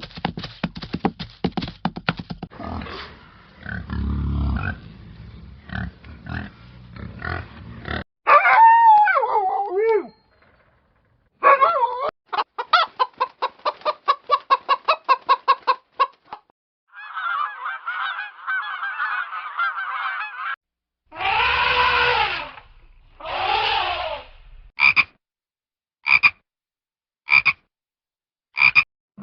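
Farm animal calls in a quick succession of separate clips. There is a rapid run of short calls at about four a second, a dense flock chorus, two long calls, then five short calls about a second apart.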